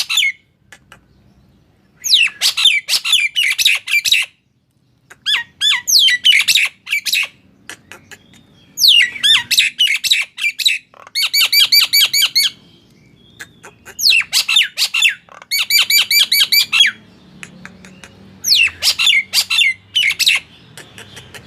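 A male Nias hill myna calling: loud phrases of rapid, falling, whistle-like squawks, each about two seconds long, repeated after short pauses.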